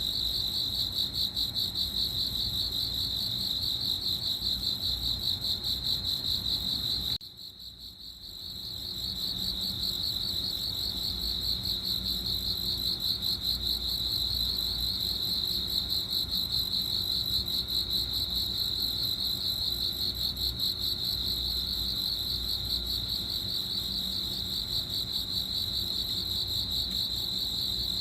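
Crickets chirring in a steady, rapidly pulsing high trill. About seven seconds in the sound drops away abruptly for a second or so, then builds back to the same continuous chirring.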